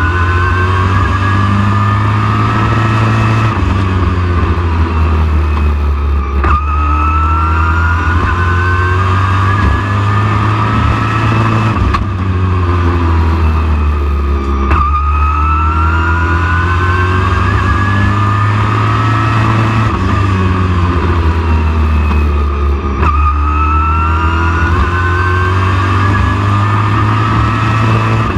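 A race truck's engine running hard around a short oval, climbing steadily in pitch along each straight and dropping back as it lifts for the turns, a cycle roughly every eight seconds, over a constant low rumble.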